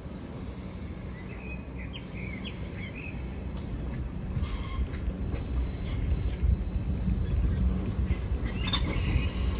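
ICE high-speed electric train rolling slowly past, a low rumble that grows louder, with a couple of sharp clicks. A small bird chirps a few times about two seconds in.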